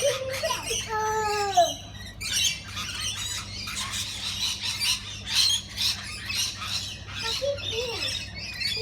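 A flock of parrots chattering and squawking, with many short overlapping calls and one louder falling call about a second in.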